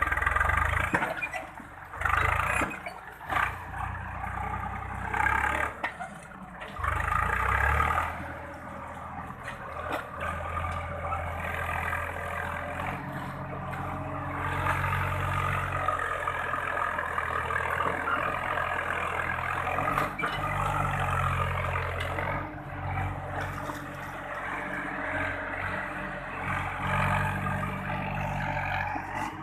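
Swaraj 963 FE tractor's diesel engine working, revving in uneven surges for the first several seconds, then running more steadily with rises and dips in speed.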